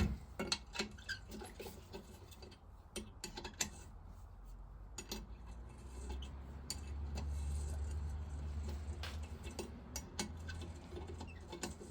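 Scattered light metallic clicks and taps of a spanner being worked on a heated, seized nut on an old engine's vaporiser. A low steady rumble swells in the middle, from about six seconds in to about ten.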